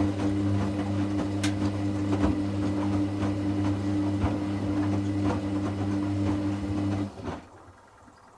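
Hoover Classica 1100 AC164 washing machine's drain pump humming steadily as it pumps water out, with irregular gurgling rattles over it; it stops suddenly about seven seconds in.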